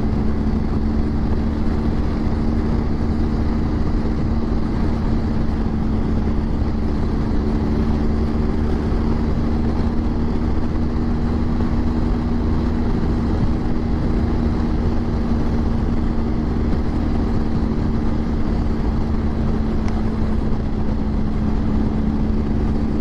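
BMW GS motorcycle cruising at a steady speed: the engine holds a constant drone at an unchanging pitch over a heavy low rumble of wind.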